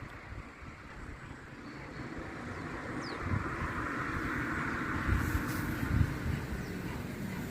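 A Class 158 diesel multiple unit approaching and running past, its rumble and rail noise building over a few seconds to a peak, with a few low thumps.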